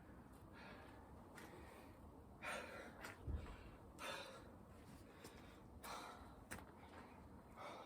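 A person breathing hard from exertion, with a heavy breath every second or two, and a single low thump a little after three seconds in.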